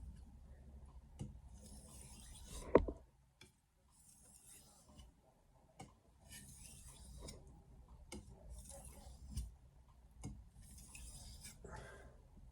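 Knife blade being stroked across a wet soaking whetstone: about five slow scraping passes, roughly two seconds apart, with small clicks between them. A single sharp knock about three seconds in is the loudest sound.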